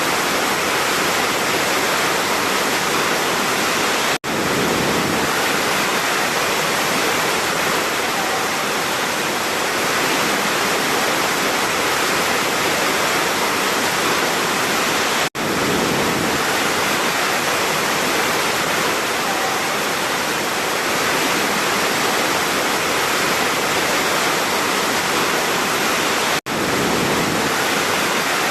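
Large waterfall: a steady, loud rush of falling water. Three very brief dropouts break it, evenly spaced about eleven seconds apart.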